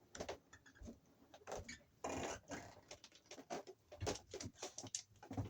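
Tools clicking, knocking and scraping against a junction box while its edges are worked smooth, in short irregular bursts with a longer scrape about two seconds in.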